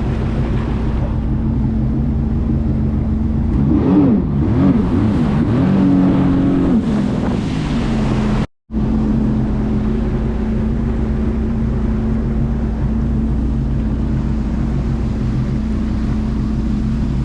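Jet ski engine running steadily over water and wind noise. Its pitch rises and falls a few times about four to seven seconds in as the throttle changes. The sound cuts out for a moment about halfway, then the engine runs steadily again.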